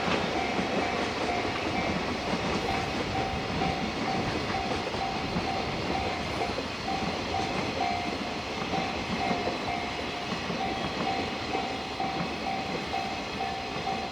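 Freight train passing on the line, its wagons' wheels rolling and clattering over the rail joints in a steady rush. A short ringing tone repeats about twice a second over the train noise.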